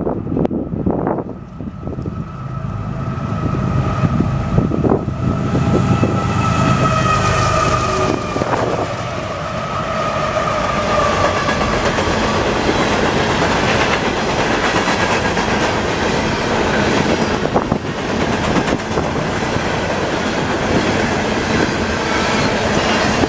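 CSX freight train passing: its four diesel locomotives rumble by, then the freight cars rattle and clack over the rail joints. A held high tone sounds through the first half, then fades.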